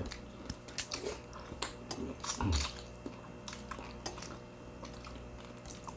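Close-miked eating: chewing and biting with many sharp mouth clicks and smacks, and a brief low voiced murmur about two and a half seconds in.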